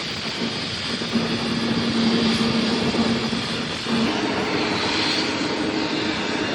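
Airliner engines running: a steady rushing noise with a low hum whose pitch shifts slightly upward about four seconds in.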